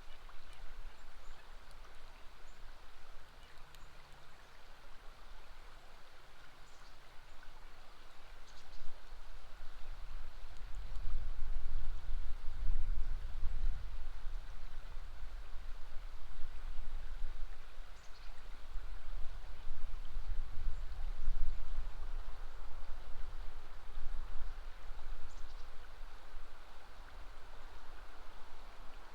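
River water flowing steadily over a bend, a constant rushing hiss. A low rumble swells under it through the middle and fades again.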